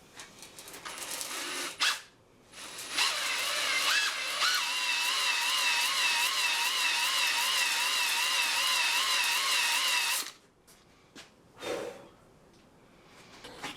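Electric drill driving a cylinder hone in the Saab 9000's engine block, running steadily for about seven seconds with a whine that wavers up and down about twice a second as the hone is worked up and down the bore, then stopping. Shorter sounds come before it starts and after it stops.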